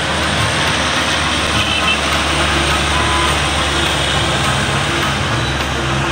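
Heavy truck's diesel engine running steadily, with a constant rush of road and wind noise over a low engine hum.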